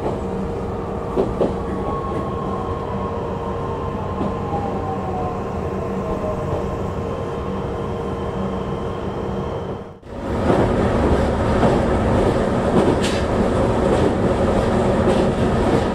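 Onboard sound of a JR East E131 series electric train: a steady rumble with a motor whine that falls slowly as the train slows. About ten seconds in the sound drops out for a moment and comes back as louder, rougher running noise on the rails.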